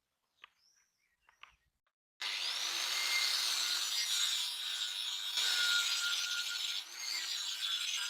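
A power tool abrading a surface: a loud, steady grinding noise with a constant whine in it, starting abruptly about two seconds in after a few faint bird chirps.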